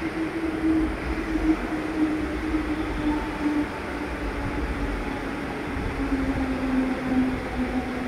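Suburban electric local train moving slowly alongside the platform, its traction motors whining with a slowly falling pitch over a low rumble as it slows down.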